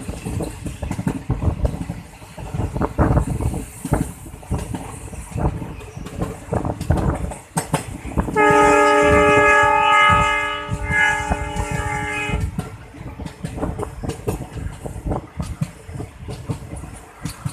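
Train running, heard from on board, with a steady rumble and irregular clicking and clacking of the wheels over the rails. About eight seconds in, the locomotive horn sounds one long blast of about four seconds.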